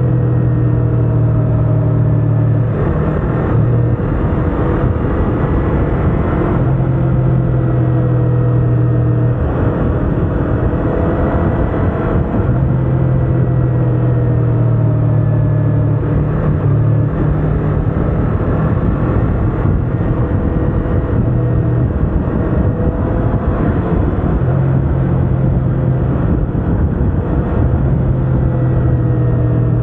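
Yamaha R25's parallel-twin engine running at cruising revs while riding, its pitch rising and falling gently with the throttle, under steady wind and road noise. A loud low hum cuts in and out every few seconds.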